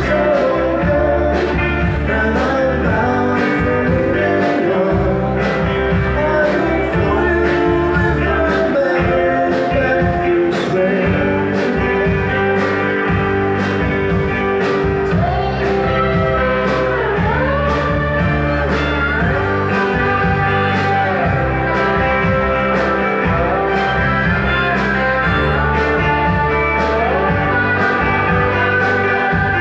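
Live rock band playing a mid-tempo country-rock song, with guitars, bass and a steady drum beat and some bending guitar notes.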